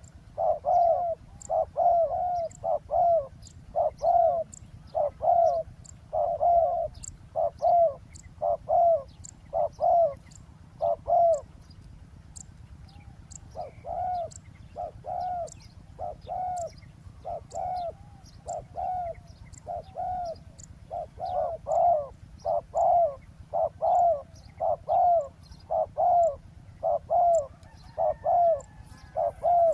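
Spotted dove cooing over and over in short phrases of low, rounded coos, with a short pause about halfway through before the cooing resumes.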